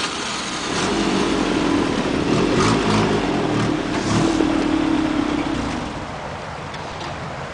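Off-road truck's engine revving hard under load, then easing back to a lower steady run about six seconds in. Two short knocks come midway.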